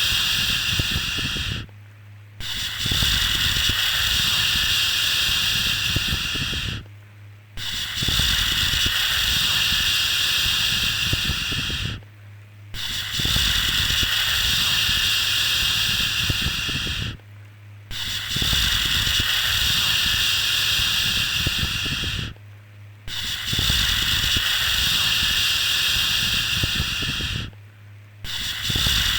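A soothing 'shhh' shushing sound for lulling a baby to sleep: long, even hisses of about four and a half seconds, each followed by a pause of under a second, repeating steadily.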